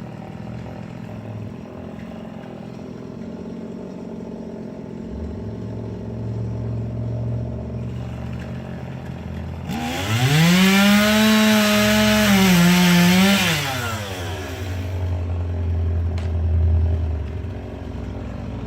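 Chainsaw idling. About ten seconds in it is revved up to high speed, holds for about three and a half seconds with a slight dip in pitch, then drops back to idle.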